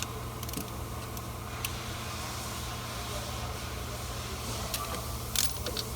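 Steady low rumble of a running engine, with a few light clicks and taps near the end.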